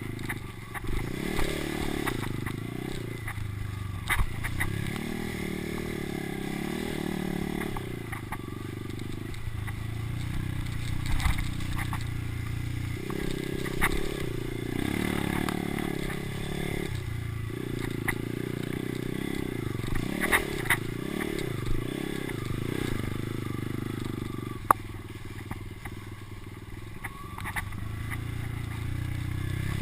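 Dirt bike engine running on a motocross track, its revs rising and falling repeatedly, with scattered clicks and knocks.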